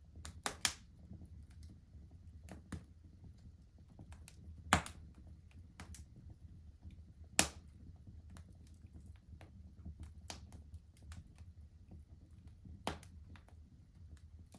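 Wood fire crackling in a fireplace: sharp pops and snaps scattered every second or two, the loudest about seven seconds in, over a low steady sound of the burning.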